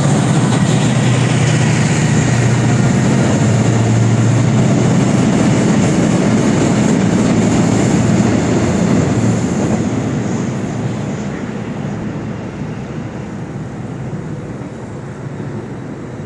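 A train passing close by: loud, steady wheel-and-track noise with a low hum, which fades gradually over the second half as the train moves away.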